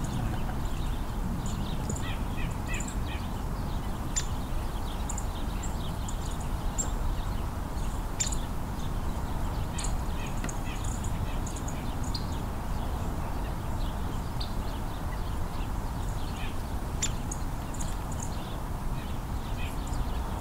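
Small songbirds giving short, high call notes, scattered irregularly, over a steady low background rumble.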